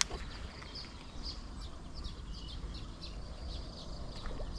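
Small birds chirping: many short, high, slightly falling chirps at an irregular pace, over a low rumble. A sharp click right at the start.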